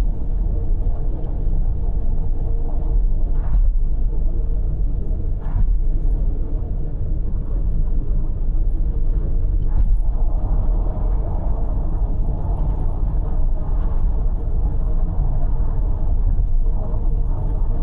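Steady low rumble of a car cruising on an expressway, heard from inside the car: tyre and engine noise with a few faint brief clicks.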